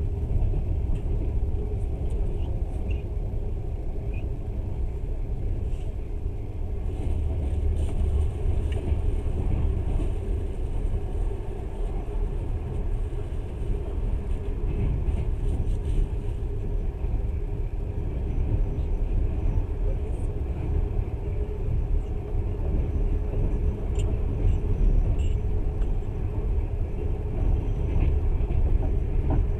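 Passenger train in motion, heard from aboard: a steady low rumble of the wheels and running gear on the track.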